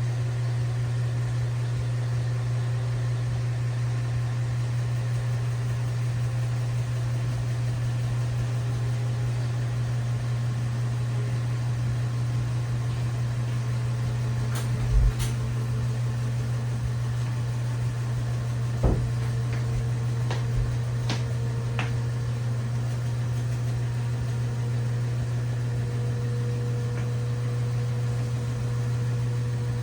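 LG WT7600HVA top-load washing machine running mid-cycle with a steady low hum, with a few light knocks or clicks about halfway through.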